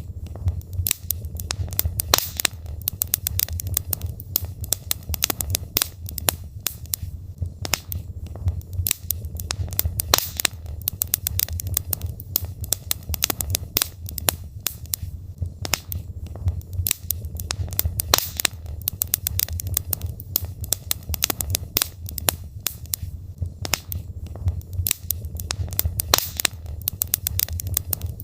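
Wood logs burning in a fireplace: irregular sharp crackles and pops, many close together, over a steady low rumble of the flames.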